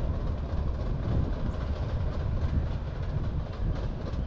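Narrow-gauge passenger train running across a girder viaduct: a steady low rumble with faint clickety-clack from the wheels.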